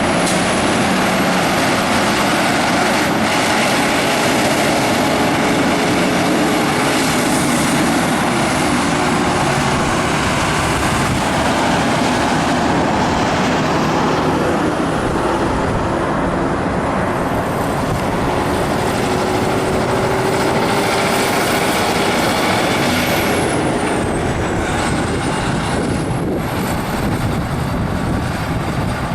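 Highway traffic with big rigs going by: a steady, loud roar of truck engines and tyres on the road, easing slightly about halfway through.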